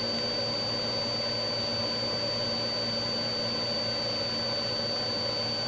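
Steady engine drone inside a police aircraft's cabin, with a constant low hum and a thin high whine over it.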